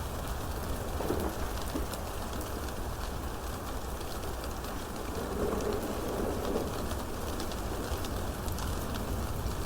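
Steady rain falling, with a constant low rumble beneath it. A soft low sound rises out of the rain twice, briefly about a second in and for a second or so in the middle.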